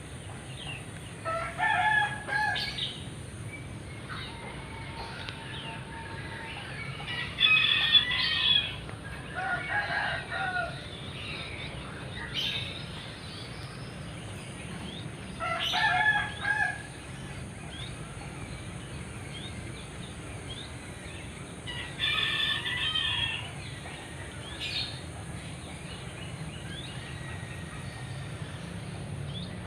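Loud bird calls, about five bouts of a second or so each, with a steady high-pitched whine beneath them.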